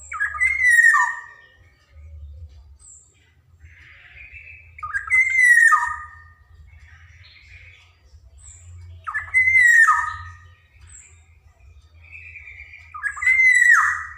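Black-naped oriole singing: a fluty, falling whistled phrase repeated four times, about every four seconds, with fainter harsh notes between the phrases.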